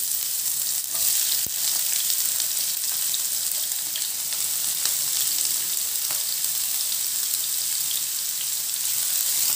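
Chopped onion frying in hot oil in a pan: a steady high sizzle with scattered faint crackles, just after the onion has gone into the already-hot oil.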